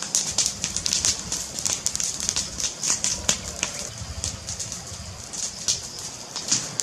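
Wood fire crackling in a fireplace: a dense run of irregular sharp pops and snaps over a low steady rumble.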